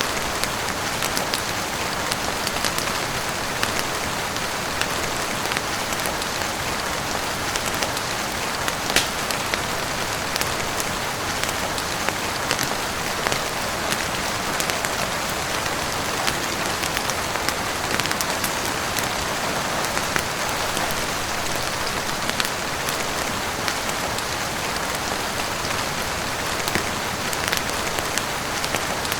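Steady heavy rain falling on a roof, with frequent small sharp clicks scattered through it.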